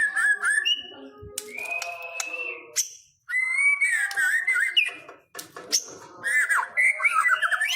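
White-rumped shama (murai batu) singing: quick, varied whistled phrases that slide up and down, with rapid falling notes near the end. There are two brief pauses, about three and five seconds in.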